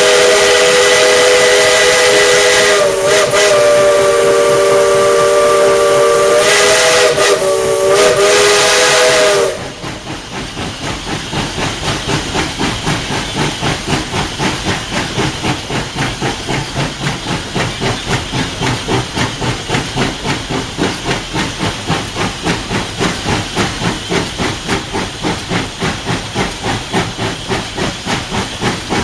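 Steam whistle of Tweetsie Railroad's #12, a 4-6-0 steam locomotive, sounding a chord of several notes for about nine seconds with two brief dips, heard from the cab. It cuts off and the engine's exhaust chuffs steadily, about three beats a second, over a hiss of steam.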